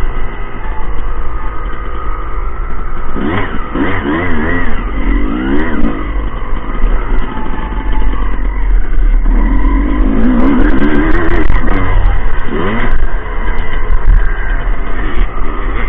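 Motocross motorcycles running, several engines overlapping and revving up and down in pitch as they accelerate and shift. The revving is loudest a few seconds in and again past the middle.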